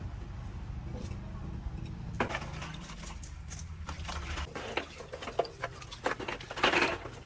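Metal tools and parts clinking and knocking against each other, irregularly, over a low steady hum; the clinks begin about two seconds in and grow busier and louder near the end.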